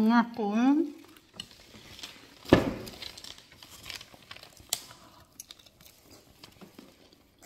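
Close-miked chewing and biting: lamb neck chop meat being bitten off the bone and chewed, with many small wet mouth clicks. It opens with a short hummed vocal sound rising in pitch, and a single sharp smack about two and a half seconds in is the loudest moment.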